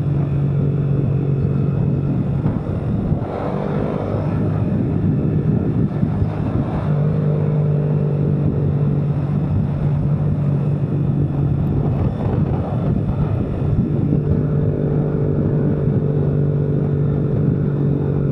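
A vehicle engine running steadily on the move, its hum stepping up and down in pitch a few times as the speed changes, with wind and road noise over it.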